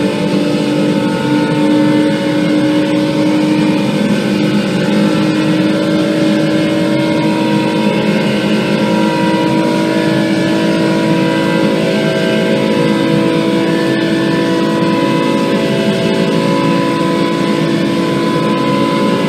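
Turbocharged VR6 engine of a Volkswagen Golf Mk4 running steadily, its pitch drifting only slightly up and down.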